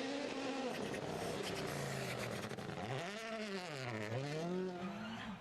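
Rally car engine running hard, its pitch sweeping up and down. About three seconds in it drops steeply, then climbs back.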